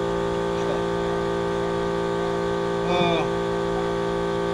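A steady mechanical hum of several constant tones, with a brief voice-like sound about three seconds in.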